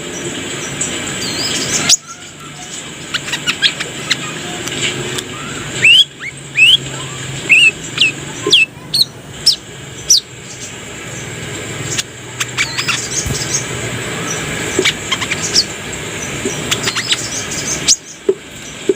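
Brown-throated sunbird (korlap) singing: a lively run of sharp high chirps and quick slurred whistled notes, in two busy spells, over a steady background hum.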